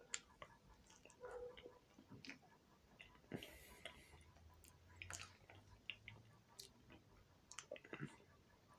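A person chewing a mouthful of banana: faint, irregular wet clicks and smacks of the mouth.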